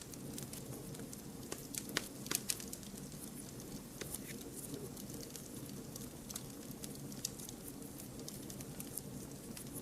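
Wood fire crackling: frequent irregular sharp pops and snaps over a low steady rush of burning flames.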